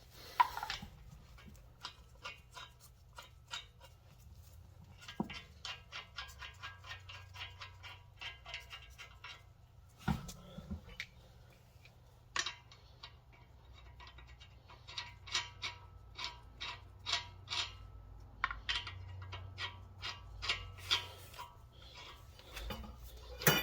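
Runs of rapid, even metal clicking from a wrench as lug nuts are run down onto the wheel studs, with a couple of low knocks between the runs.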